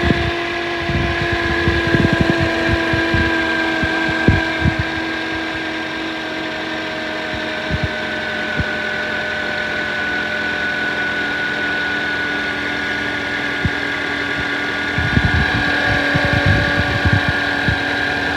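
2006 Toyota Corolla engine idling cold with a loud, steady whine from the engine bay, several tones that sink very slightly in pitch. The whine is typical of a bad pulley bearing, and the mechanic suspects the alternator. Scattered low knocks come near the start and the end.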